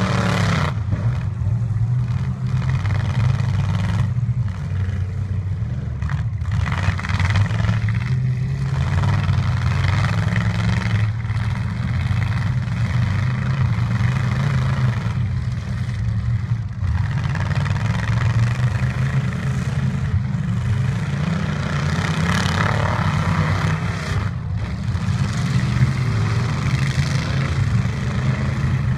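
Demolition-derby trucks' engines running and revving together, a steady low engine sound with the revs rising and falling throughout.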